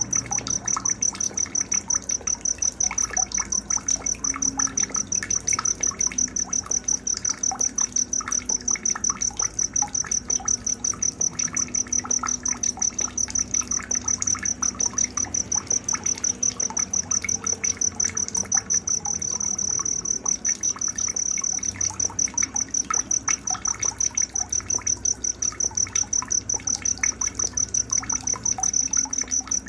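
Night-time nature soundscape: a loud, high-pitched insect trill pulsing evenly and without a break, with scattered short chirps beneath it.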